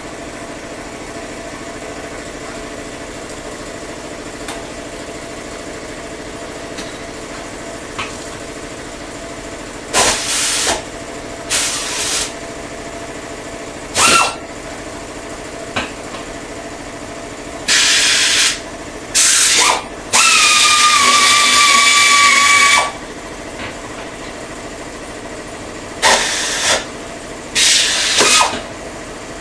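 A power tool, likely an air or power ratchet, run in about eight short hissing, whirring bursts while undoing bolts; the longest burst, about two-thirds through, holds a steady whine for nearly three seconds. A steady hum runs underneath throughout.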